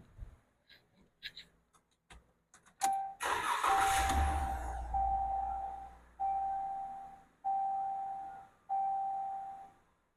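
The 2014 Ram 1500's 3.6-litre Pentastar V6 is cranked and catches about three seconds in, after a few light clicks. This is its first start on the fresh oil fill. The cab's warning chime dings repeatedly at an even pace.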